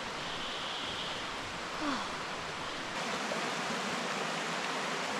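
Steady hiss of rain falling through rainforest, with a brief falling whistle about two seconds in.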